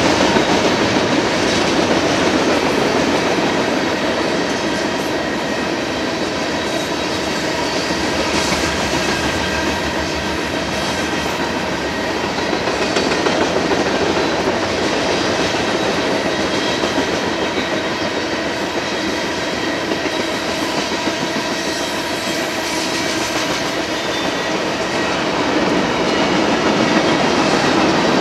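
Union Pacific freight train rolling past, a steady rumble and clatter of railcar wheels on the rails with faint steady high tones over it, swelling slightly twice.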